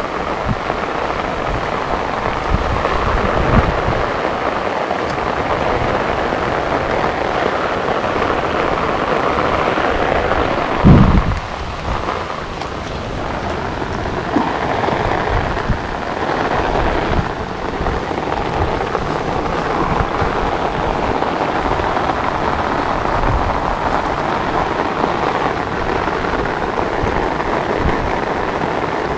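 Steady rain falling on open water and marshy ground, a continuous hiss, with one brief low thump about eleven seconds in.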